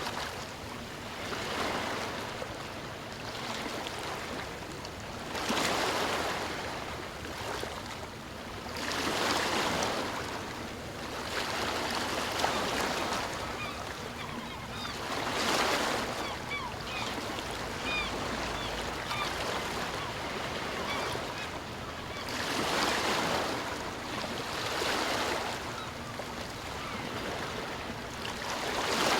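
Ocean waves breaking and washing on a shore, swelling into a louder surge every few seconds. A few faint short high chirps come through in the middle and again near the end.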